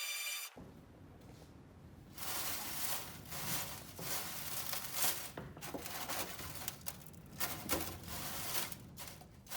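A steady electronic beeping tone cuts off about half a second in. It is followed by irregular handling noises: crinkling and scraping with small clicks and knocks, as if scrap parts are being pulled apart and moved about by hand.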